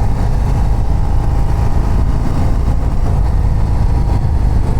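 Harley-Davidson CVO ST's Milwaukee-Eight 121 V-twin engine running steadily under the rider while the motorcycle is ridden along.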